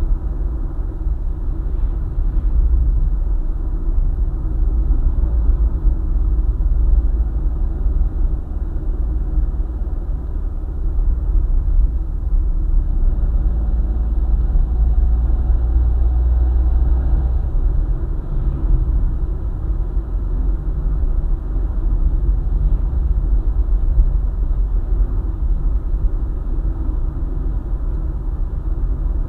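Car driving along a highway: a steady low rumble of engine and tyre noise, with a faint rise in tone partway through.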